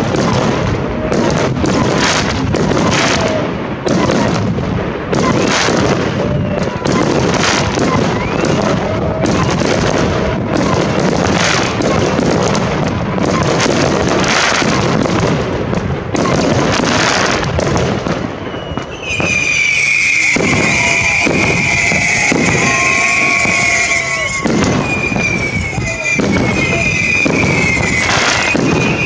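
Fireworks display: a rapid, continuous run of shells bursting, with bangs and crackling glitter. About two-thirds of the way through a loud, high whistling joins in and carries on over the bangs.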